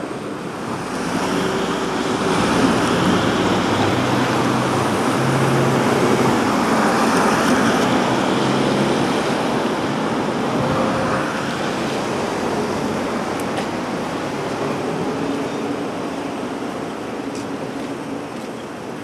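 Street traffic noise, with a motor vehicle's engine hum growing louder about a second in and easing off after about eleven seconds as it passes close by.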